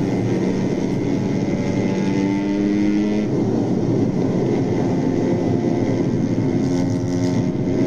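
Steady engine drone from the chase footage. Its low pitch shifts in steps every few seconds, with no siren or sudden sounds.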